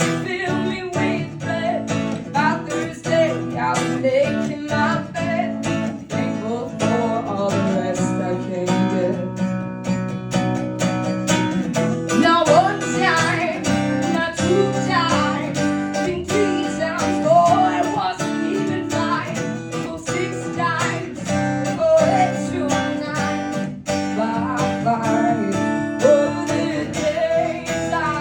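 Live pop-rock band music with strummed guitar and a bending melody line over it.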